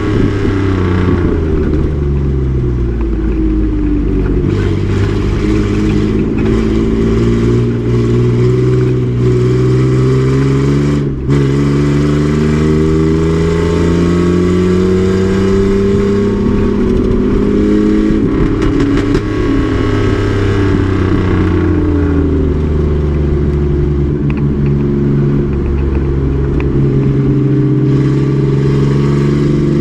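Race truck's engine running hard at track speed. The revs fall for the first few seconds, then climb steadily with a brief break about eleven seconds in. They fall again around the eighteen- to twenty-second mark and climb once more toward the end.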